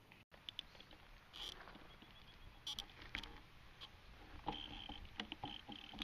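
Irregular light clicks and knocks over a low rumble: a camera rattling in its bicycle handlebar mount as the bike's vibration shakes it, getting busier from about four seconds in. The sound cuts out briefly just after the start.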